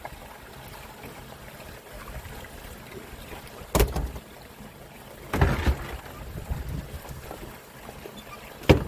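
Steady running noise of a fishing boat at sea, broken by three sharp knocks: one about four seconds in, one about five and a half seconds in with a short rattle after it, and one near the end.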